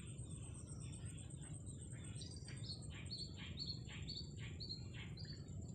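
A bird calling in a run of about ten short, high-pitched repeated notes, roughly three a second, starting about two seconds in. A steady high-pitched tone runs underneath.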